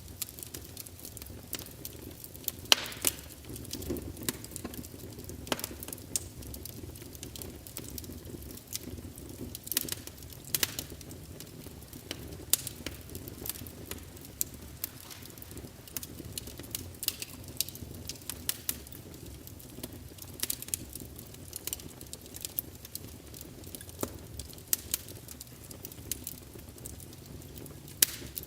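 Wood fire crackling: irregular sharp pops and snaps of burning logs over a steady low rumble of flames.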